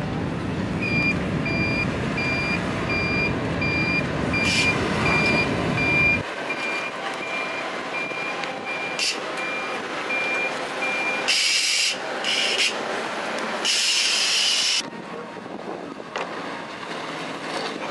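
Vehicle reversing alarm beeping steadily, about one and a half beeps a second, over a low engine rumble that stops suddenly about six seconds in. After the beeping stops, air hisses out loudly in three short blasts.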